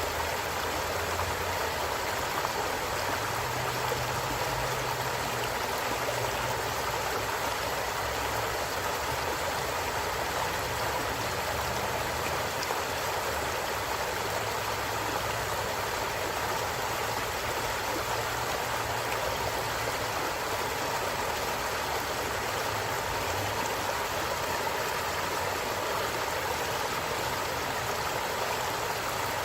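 Stream water running steadily over rocks, an even, unbroken rushing with a faint low rumble underneath.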